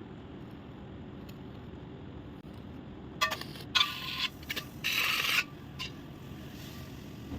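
A few short, bright scrapes and clinks of something hard on a hard surface, bunched together about three to five and a half seconds in, over a steady low background rumble.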